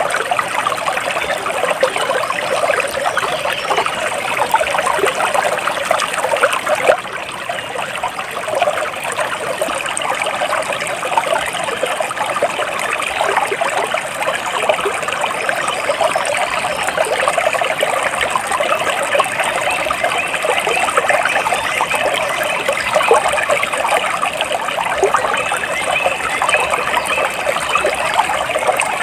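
Flowing water trickling and splashing steadily, like a small stream, with a brief drop in level about seven seconds in.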